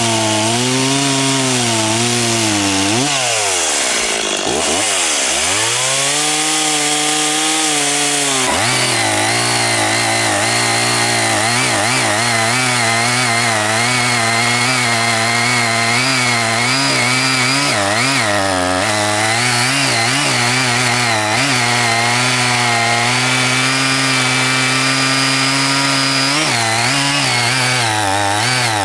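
Two-stroke chainsaw cutting through wood, engine wavering under load. About three seconds in the revs drop sharply, then climb back, and from about eight seconds on it runs flat out again, wavering as the chain bites.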